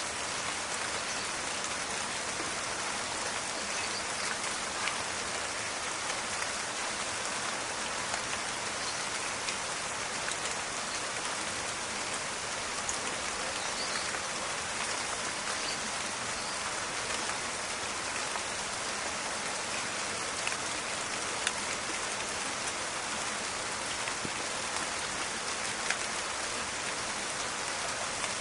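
Steady rain falling, a dense even crackling of drops with scattered sharper single drop hits.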